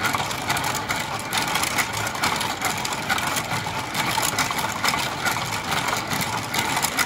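3D-printed six-bobbin braiding machine running, its 24 V DC gear motor driving plastic gears and bobbin carriers in a steady, dense clatter of small clicks.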